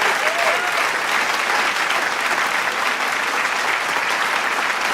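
Large crowd applauding with steady dense clapping, with a few short cheers or whistles from the crowd near the start.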